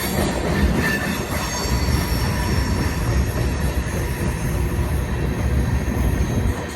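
Freight cars rolling past, a steady rumble of steel wheels on rail, with a thin high-pitched squeal of wheel flanges from about a second in until near the end.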